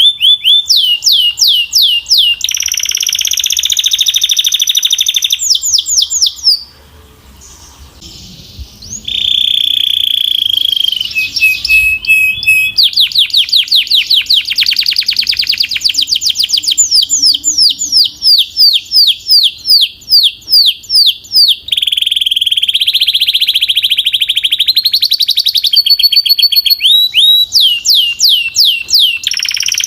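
Domestic canary singing a long song. Runs of fast repeated falling whistled notes alternate with sustained rolling trills. The song drops away briefly about seven seconds in, then carries on.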